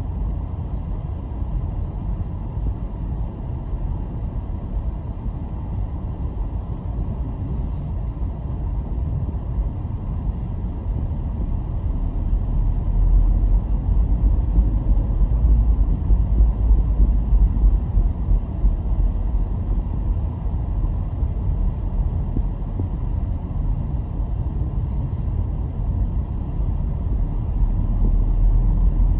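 Car driving, a steady low rumble of road and engine noise that grows louder for several seconds about twelve seconds in and again near the end.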